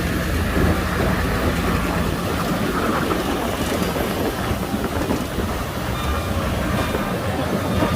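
Heavy diesel earthmoving machinery running steadily: a low, even engine drone under a continuous rumbling noise.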